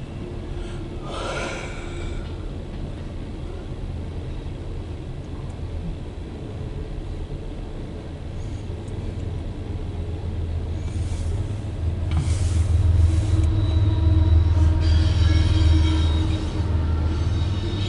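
Diesel locomotives of a CSX empty coal train approaching, a low rumble that grows louder through the middle and peaks about three-quarters of the way in, with steady high-pitched tones joining near the end.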